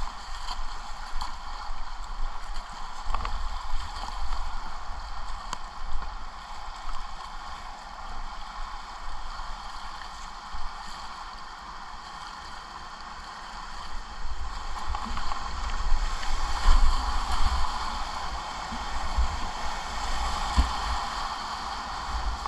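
Whitewater rushing and splashing around a kayak running a river rapid, with occasional sharp splashes and a low rumble. The rush grows louder about two-thirds of the way through.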